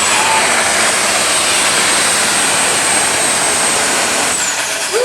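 Turbocharged diesel super stock pulling tractor running hard at full power, with a loud, steady engine noise and a high turbo whistle. About four seconds in, the whistle slides down in pitch as the throttle comes off at the end of the pull.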